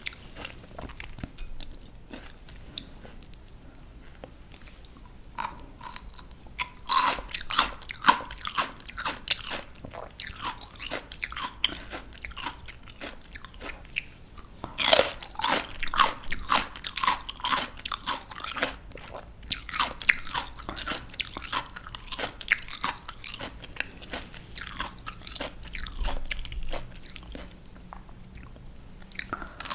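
Close-up biting and chewing of crisp raw vegetables, with sharp wet crunches. Quieter for the first few seconds, then loud bites about seven and fifteen seconds in, each followed by a run of crunchy chewing.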